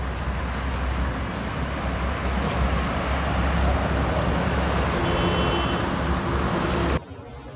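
Steady vehicle engine and road noise with a deep rumble, cutting off abruptly about seven seconds in.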